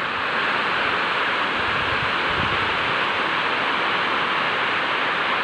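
Heavy rain pouring steadily in strong wind, an even hiss, with a brief low rumble about two seconds in.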